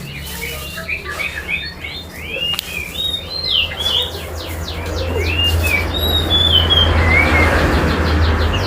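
Songbirds, a kutilang sutra and a kacer (oriental magpie-robin), singing against each other in quick runs of short rising-and-falling chirps over a steady low hum.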